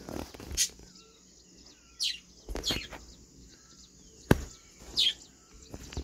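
Several short, high bird chirps, each falling in pitch, spaced a second or two apart. A single sharp click a little after four seconds in is the loudest sound.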